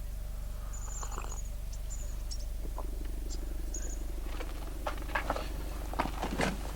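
A small fire burning with a steady low rumble. A few short high chirps sound in the first few seconds, and some clicks and knocks come in the last two seconds.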